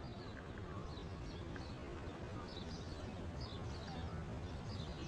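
Small birds chirping again and again over steady outdoor background noise.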